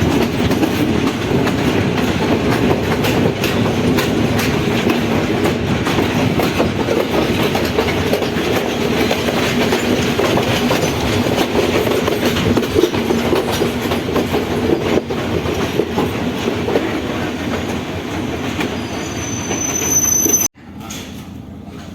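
Passenger train running along the rails, wheels clicking over the rail joints, with a thin high wheel squeal near the end. The sound cuts off suddenly about twenty seconds in, leaving a much quieter background.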